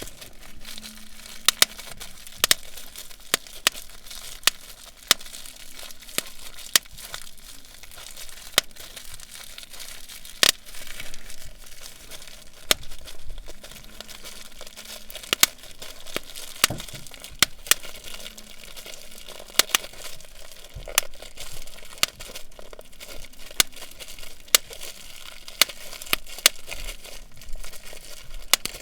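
Plastic bubble wrap being squeezed and popped: irregular sharp pops, one or two a second, over a constant crinkling of the plastic.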